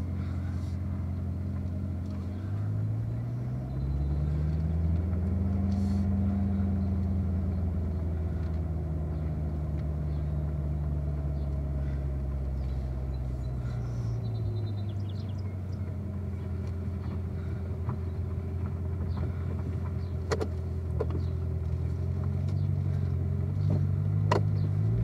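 Chevrolet Corvette C7's V8 running at about 1,000 rpm as the car creeps at walking pace in first gear. The engine note rises slightly about three seconds in, eases back down around fourteen seconds and rises again near the end, with a few sharp clicks in the last few seconds.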